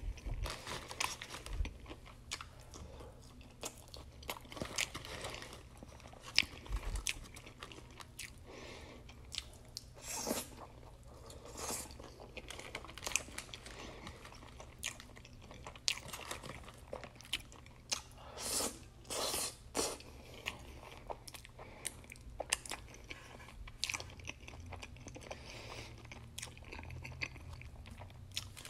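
Close-miked chewing of a crispy fried chicken sandwich: a steady stream of small crunches and wet mouth clicks, with a few louder clusters of crunching.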